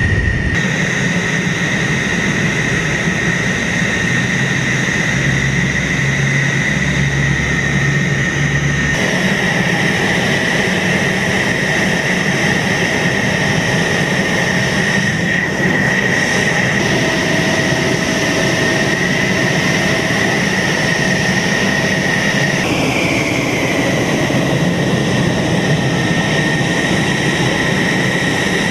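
Fighter jet engine running with a loud, steady high-pitched whine over a rushing roar; the whine bends briefly upward and back about 23 seconds in.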